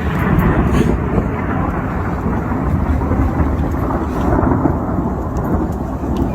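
Loud, continuous rumbling noise, strongest in the lows, cutting off suddenly at the end.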